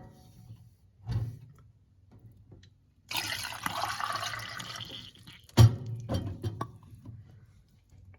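Miniature Concord toilet flushing: a rush of water lasting about two seconds, followed by a sharp knock and a few smaller knocks. A softer knock comes about a second in.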